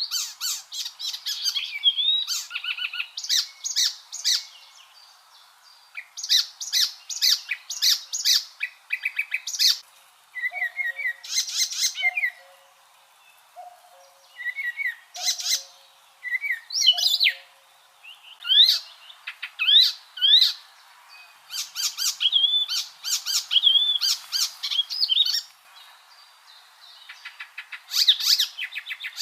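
Icterine warbler singing: a varied, high-pitched song of rapid repeated notes, chirps and whistled slurs, delivered in bursts with short pauses between them.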